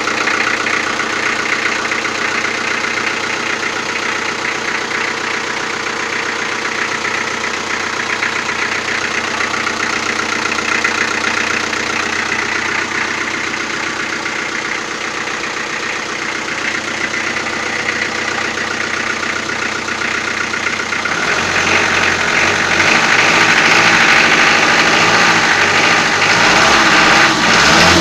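Toyota 4B four-cylinder diesel engine idling with a rhythmic knock, the kind the owner likens to too-early injection timing, which appeared after the injection pump was rebuilt with a new plunger pair and nozzles. About three quarters of the way through it gets louder and heavier.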